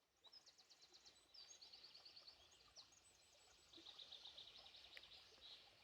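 Faint songbirds singing in a forest: fast, high, trilled phrases of rapidly repeated notes, one run in the first half and another, slightly louder, a little after the middle.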